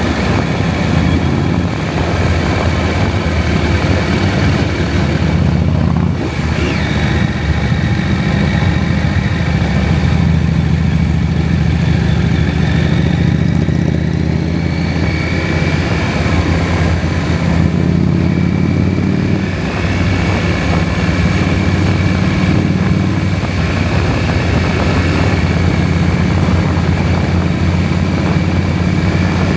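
KTM 790 Adventure's 799 cc parallel-twin engine running under way, steady, with a brief drop in level about six seconds in.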